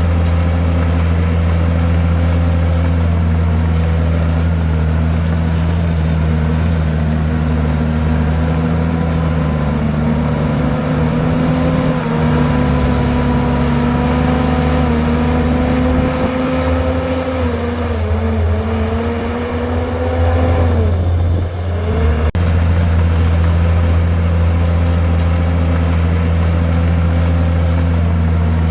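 Komatsu bulldozer's diesel engine running steadily under load. Its pitch sags for a few seconds about two-thirds of the way through, dips briefly, then comes back up to its steady note.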